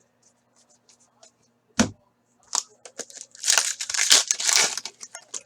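A single dull knock, then a foil hockey card pack being torn open with a dense crinkling and tearing that lasts about two seconds.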